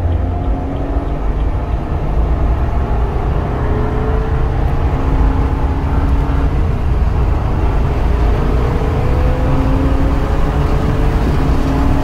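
BMW F30 328i's 2.0-litre turbocharged four-cylinder engine running under load, its note rising slowly as the car accelerates. Heavy road and wind rumble comes through inside the cabin.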